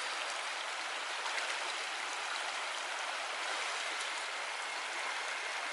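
Creek water running steadily over rocks, a continuous rushing and babbling.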